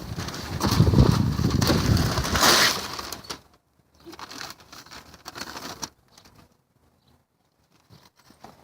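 Pieces of firewood knocking and snapping as they are handled and laid on a small campfire: a dense clatter for about three seconds, then a few scattered clicks.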